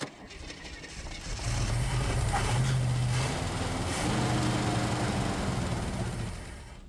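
The AMC Rambler Rogue's engine, primed with gasoline poured into the carburetor, turns over and catches about a second and a half in. It runs steadily for several seconds on the poured fuel, then dies away near the end as that fuel is used up.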